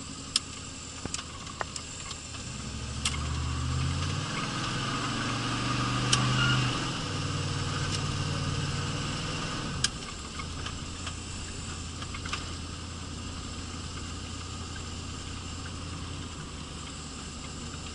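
Car engine pulling away: its pitch rises a few seconds in, holds and shifts in steps for several seconds, then settles into a steady lower drone from about ten seconds on, with a few scattered light clicks.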